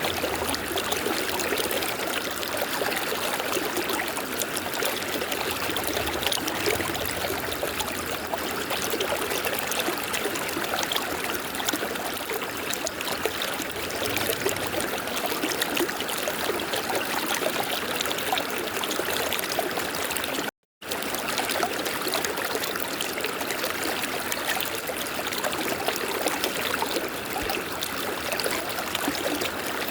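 A river flowing: a steady rush of running water, cut off by a brief gap of silence about two-thirds of the way through.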